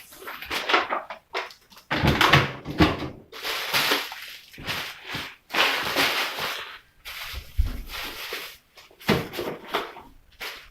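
Vegetables being packed into a refrigerator's vegetable drawer: irregular rustling of handled items with short knocks and a few dull bumps.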